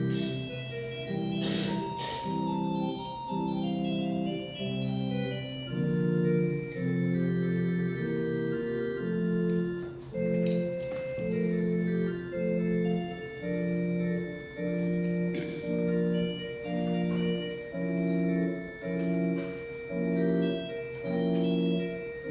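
Organ playing a slow, hymn-like piece in held chords, the chords changing about once a second with short breaks between them.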